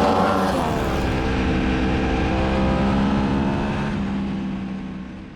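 Aprilia Tuono V4 Factory's V4 engine coming off high revs, its pitch dropping quickly at the start, then running at a steady lower pitch before fading out near the end.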